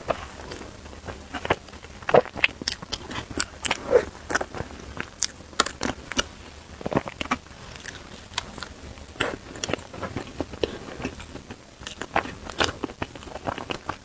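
Close-miked eating sounds: someone biting into and chewing crunchy food, an irregular run of sharp crunches and crackles.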